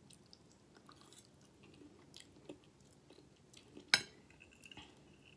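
Quiet chewing of a mouthful of scrambled eggs with small scattered mouth clicks. About four seconds in, a single sharp clink of a metal fork against the plate.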